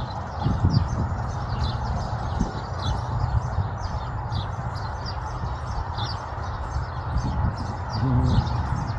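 Small birds chirping: a steady stream of short, high, falling chirps, several a second, over a steady low rumble.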